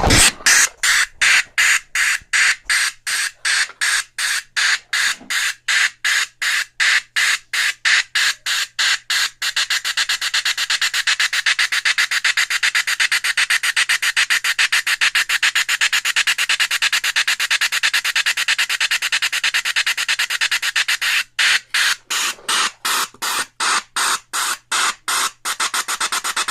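Electronic steam-sound module for an RC model, playing steam-engine exhaust chuffs through its speaker over a faint steady hum. The chuffs quicken over about ten seconds into rapid, almost continuous chuffing. About 21 seconds in they slow back to separate chuffs, then speed up again near the end.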